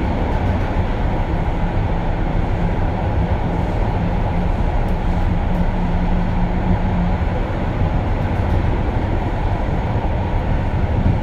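Osaka Metro 80 series linear-motor subway train running at speed through a tunnel, heard from inside the car: a steady rumble of wheels and running gear, with a faint low hum for a few seconds in the middle.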